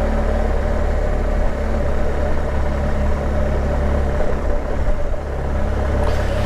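BMW R1200GS boxer-twin engine running steadily while riding, with heavy low rumble, heard through an action camera's built-in microphone.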